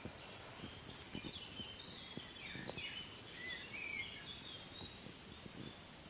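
A songbird singing a quick run of short high notes, from about a second in for some three seconds, over light rustling and brushing of currant leaves as the bush is handled.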